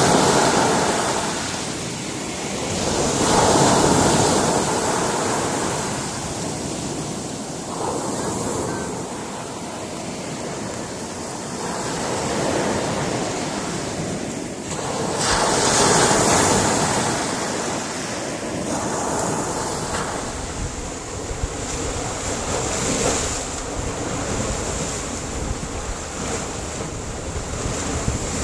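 Sea surf breaking on a rocky shore: waves rush in and wash back, the noise swelling and ebbing every few seconds, with the two biggest surges about three and sixteen seconds in.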